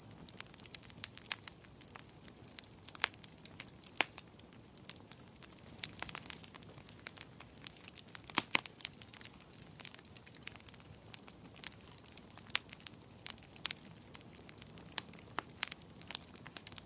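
Wood fire crackling: irregular sharp snaps and pops, a few louder ones, over a soft steady hiss of burning.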